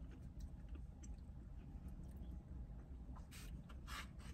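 Quiet chewing of vegetables, with small clicks and, in the second half, two short scrapes of a plastic fork in a foam cup.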